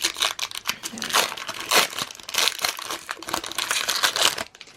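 Foil wrapper of a Pokémon card booster pack crinkling and tearing as it is pulled open, a dense run of sharp crackles that stops suddenly shortly before the end.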